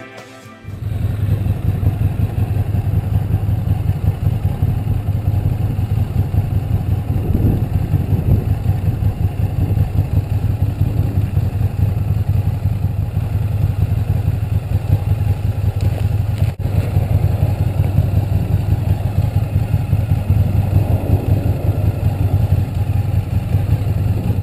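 Ducati Monster 1100 EVO's air-cooled L-twin engine idling steadily with a deep, even pulse, starting just under a second in as background music cuts off.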